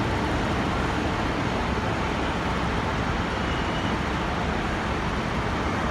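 Diesel train running at a station platform: a steady, even rumble and hiss with no distinct notes or events.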